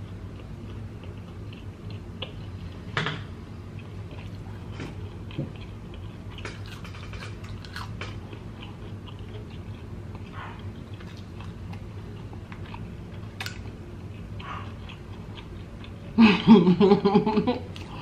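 Close-miked chewing of crunchy fried egg rolls, with faint crunches and mouth clicks and a sharper crunch about three seconds in. Near the end comes a short, loud vocal sound, a drawn-out hum or call.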